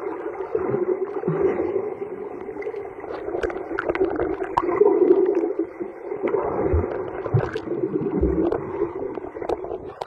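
Muffled water sloshing and gurgling in a swimming pool, with scattered small clicks and knocks.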